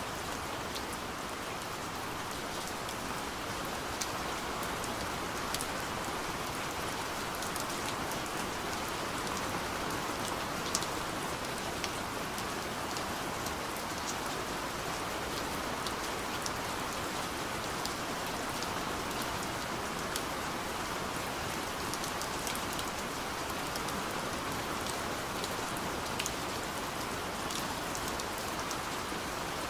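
Soft rain falling steadily on a window pane: an even hiss with scattered individual drops ticking on the glass.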